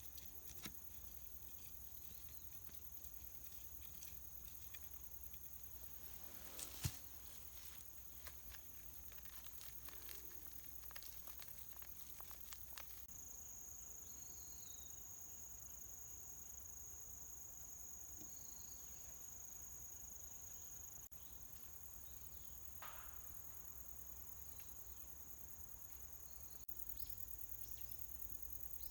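Faint steady high-pitched trilling of insects, which grows louder about halfway through. Scattered light taps and clicks run over it, with one sharper knock about seven seconds in.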